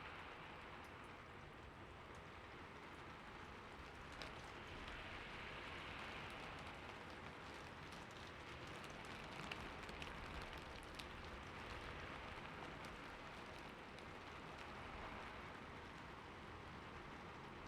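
Rain falling steadily: an even hiss with faint scattered drop ticks, swelling a little a few seconds in and again around the middle.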